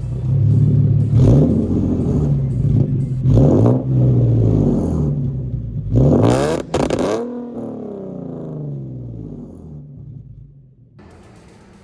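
2009 Infiniti G37S's 3.7-litre V6 revved three times through straight-piped test pipes, a 370Z Nismo exhaust and a muffler delete. The pitch climbs and drops on each blip, the third the sharpest, before settling back to idle.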